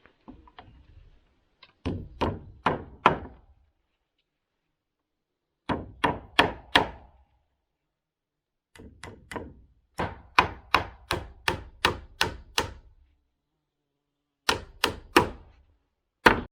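Hammer blows on wood in quick runs of three to eight strikes, about three a second, with short pauses between runs.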